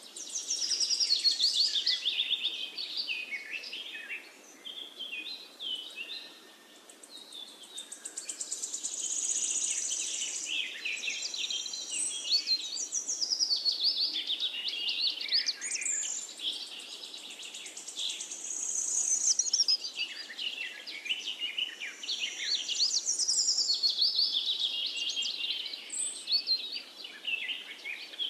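Small birds singing: a dense, high-pitched stream of chirps, trills and quick whistled glides that swells and eases in waves.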